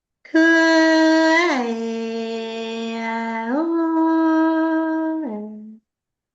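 A woman's voice singing long, held wordless notes. The pitch steps down after about a second and a half, back up near the middle, and down again, then stops suddenly just before the end.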